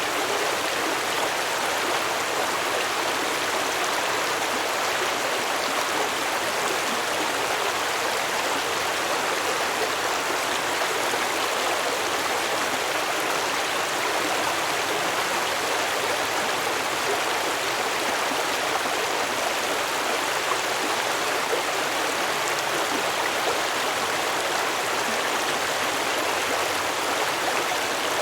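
Small stream running steadily over rocks, an even rushing and babbling of water.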